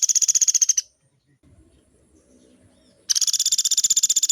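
Pelatuk beras woodpecker calling a long, rapid trill of evenly spaced high notes. The trill stops about a second in, and after a short pause another begins about three seconds in.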